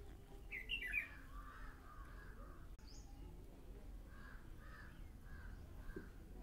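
Birds calling in the background: a sharp gliding call about half a second in, then a run of short repeated calls, over a low steady hum.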